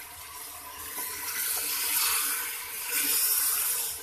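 Mutton pieces, onions and tomatoes sizzling in hot oil in an aluminium pressure cooker as they are stirred with a wooden spatula. The sizzle swells louder about a second in and again around three seconds, then drops back.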